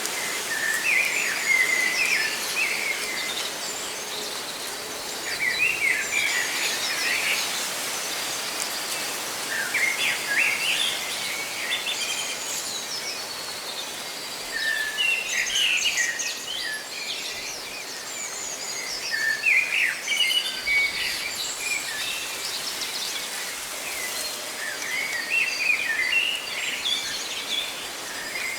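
Songbirds chirping in short bursts of song every few seconds, over a steady hiss of rustling leaves.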